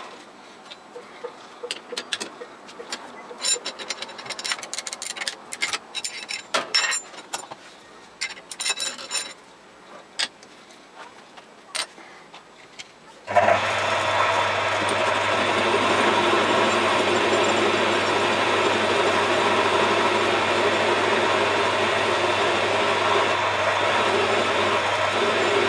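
Light metallic clinks and knocks of tools and metal parts being handled at a metal lathe, some ringing briefly. About thirteen seconds in, the lathe's electric motor starts with a thump and runs steadily with a constant hum.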